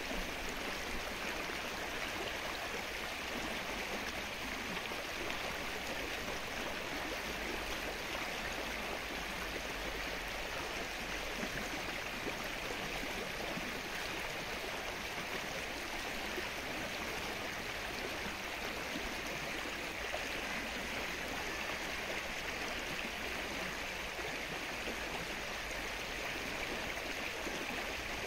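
Rain falling steadily on the open water of a flooded lake, an even, unbroken patter of drops on the surface.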